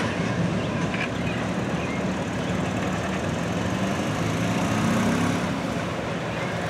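A small SUV's engine running and pulling away as it crosses the railway tracks once the gates lift, loudest around five seconds in, over a steady low rumble.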